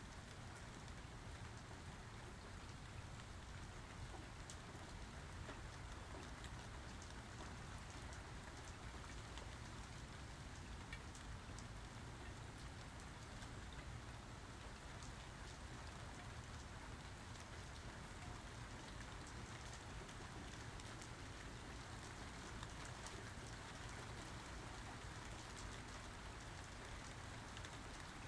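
Steady rain falling, with fine drop ticks against surfaces; no thunder.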